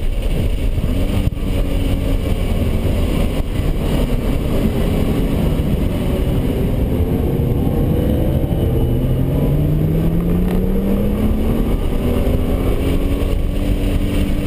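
Cabin sound of a 2010 Nissan GT-R's twin-turbo V6 under way, over heavy road and wind rumble. From about eight seconds in the engine note climbs steadily as the car accelerates.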